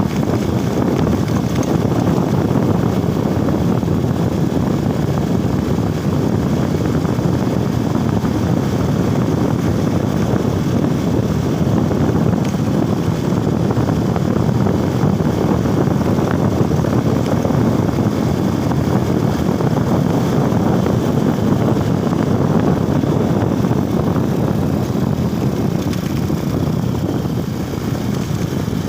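Steady rush of wind on the microphone mixed with a motorcycle's engine while riding: a dense, even noise that dips briefly near the end.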